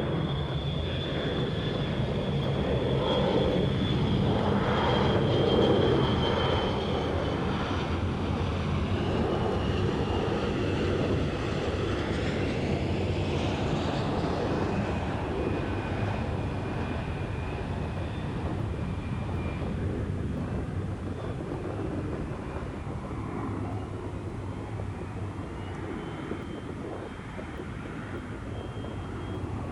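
Jet airliner taking off: a steady jet engine rumble with a high whine, loudest about five seconds in, then fading away as the whine slowly drops in pitch.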